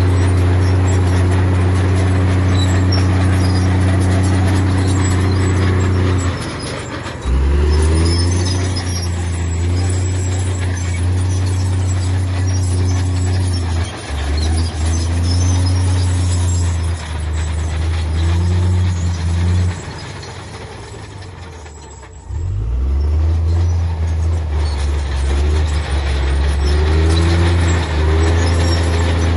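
Heavy diesel engine of earthmoving machinery working under load. It runs steadily at first, then drops away and changes pitch about six seconds in. It falls quieter again from about twenty seconds in before picking back up near twenty-two seconds.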